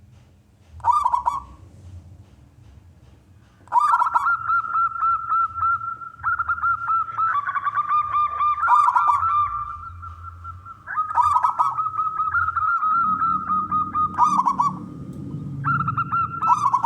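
Zebra dove (perkutut) cooing: a short call about a second in, then long bouts of rapid, pulsing coo notes with brief pauses between them.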